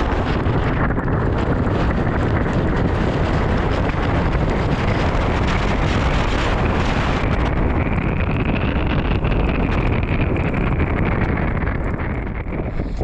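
Gale-force wind blasting the microphone: loud, unbroken wind noise that eases a little near the end.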